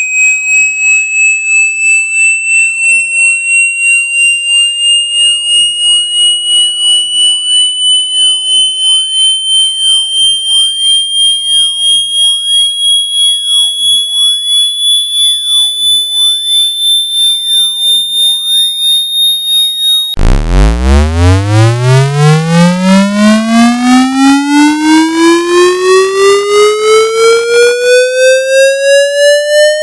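Synthetic water-eject tone, pulsing in loudness about twice a second. A high pure tone rises slowly in pitch. About two-thirds of the way through it cuts abruptly to a deep buzzy tone with many overtones, which climbs steadily in pitch.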